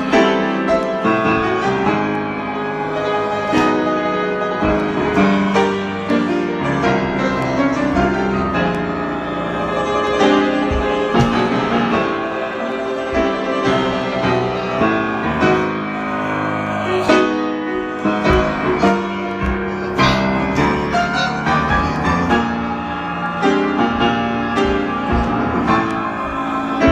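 Piano playing an improvised piece, with many notes struck throughout.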